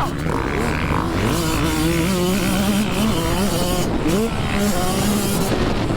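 Dirt bike engine revving on a motocross track, its pitch rising and falling as the throttle opens and closes, with a quick upward sweep about four seconds in.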